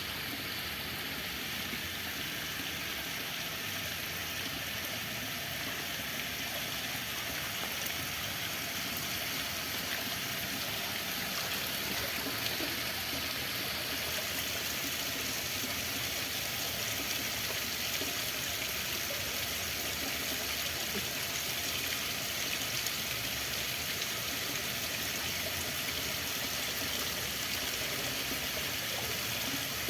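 Running water, a steady even rush without breaks.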